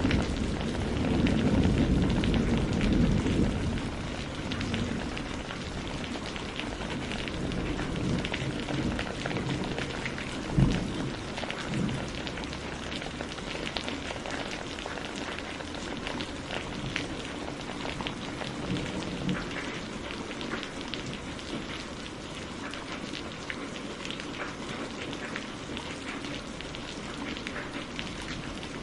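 Steady rain pattering on a surface, with a low rumble of thunder dying away over the first few seconds. A couple of sharp pops stand out about ten and twelve seconds in.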